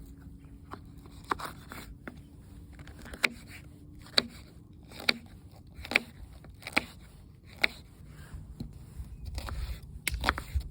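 Knife cutting on a cutting board: a series of sharp strokes about one a second, with light scraping between them. A low rumble comes in near the end.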